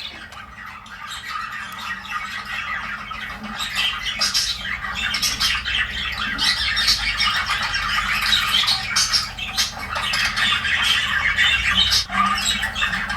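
Budgerigars chattering: a dense, continuous run of quick chirps and squawks that grows louder and busier after about two seconds.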